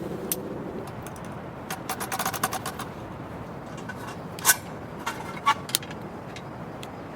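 A quick run of light clicks and clinks about two seconds in, then a few single sharp clicks, the loudest a little before the midpoint, over a steady background hiss.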